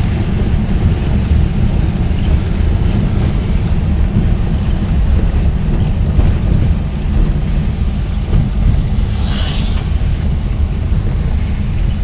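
Steady low rumble of a moving vehicle with wind buffeting the microphone, and a brief hiss about nine seconds in.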